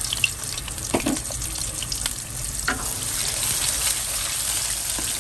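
Blended paste sizzling in hot oil in a pan as it is stirred with a wooden spatula, a steady frying hiss with a few sharp knocks about one, two and nearly three seconds in.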